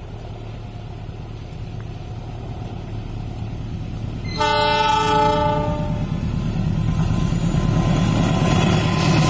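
Diesel-hauled train approaching: a low engine rumble builds steadily, a single locomotive horn blast sounds for about a second and a half a little over four seconds in, and the rumble and wheel noise grow louder as the train draws close.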